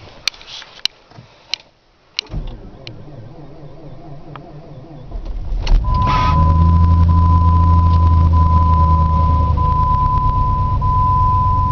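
A Jeep Grand Cherokee's 4.7-litre V8 is started in extreme cold. A few clicks are followed about two seconds in by slow, labouring cranking. The engine catches about six seconds in and settles into a loud, steady fast idle, with a thin steady high tone over it.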